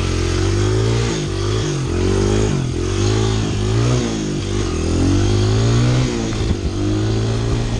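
Honda CRF100 dirt bike's small four-stroke single-cylinder engine being ridden, the revs rising and falling with the throttle about once a second.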